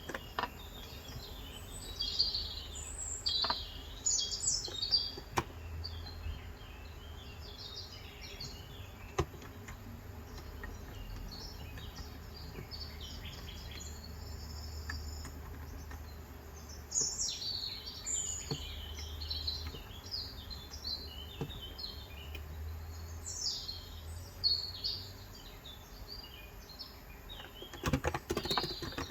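Small birds chirping and twittering in scattered clusters over a steady low hum, with a few single clicks. Near the end, rapid typing starts on a Cox Endeavor electro-capacitive keyboard.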